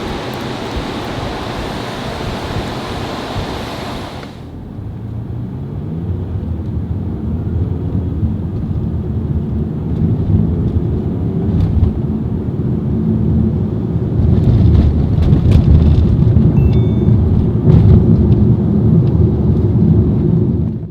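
Car running with a heavy low rumble. About four seconds in the sound changes abruptly, then the engine note rises as it pulls away and gets louder.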